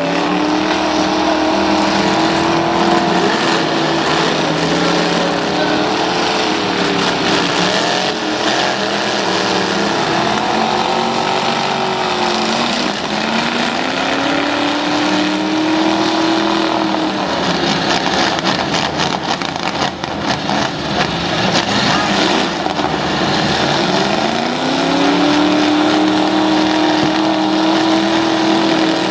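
Full-size pickup trucks and vans in a demolition derby, their engines revving up and down over and over as they drive at each other. Through the middle there is a stretch of sharp bangs and knocks.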